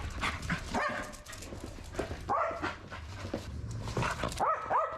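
A dog giving short, high whines and yips, excited for play with a ball, with a few clicks and rustles between the calls.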